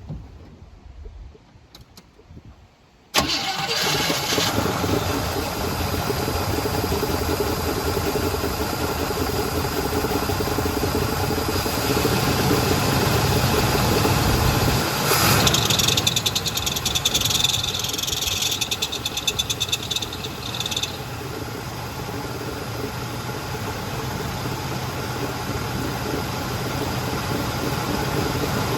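1973 Chevy K20 truck's V8 engine, primed with fuel poured down the carburetor and choke set, fires up suddenly about three seconds in and keeps running at a steady idle. Around the middle a high, rapid rattling noise joins in for several seconds, then stops while the engine runs on.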